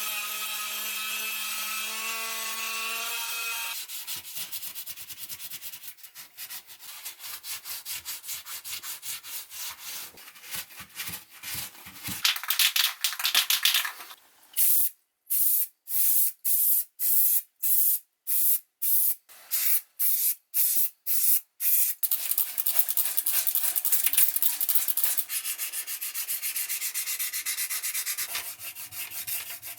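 Abrasive rubbing by hand over a rusty cast iron piece, in back-and-forth strokes. It starts with a small motor humming steadily for about three seconds. Midway the strokes come apart, about one and a half a second, and then the rubbing runs on continuously.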